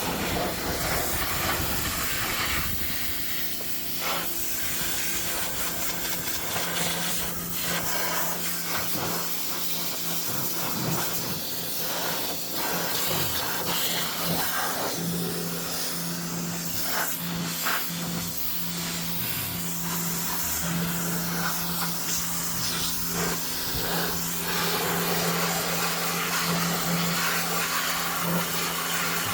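Pressure washer spraying: a steady hiss of the water jet over the washer's steady motor hum, which grows stronger about halfway through.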